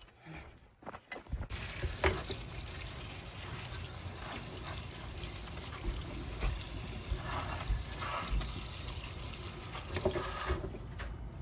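Kitchen tap running into a sink as carrots are rinsed under it. The water starts about a second and a half in and stops shortly before the end.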